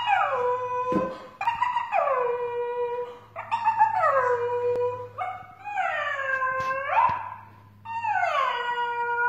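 Dog howling in human-like drawn-out calls, five in a row, each sliding down in pitch and then held, with one turning upward at its end.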